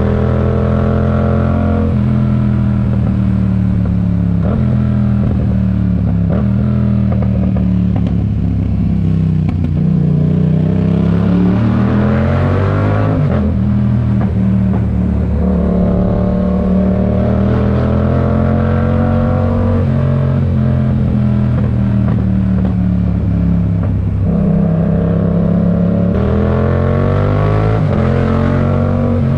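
2022 Yamaha MT-07's parallel-twin engine through a RoadsItalia aftermarket exhaust, under way. Engine pitch sinks and climbs several times with the throttle, with a sharp climb about twelve seconds in and another near the end.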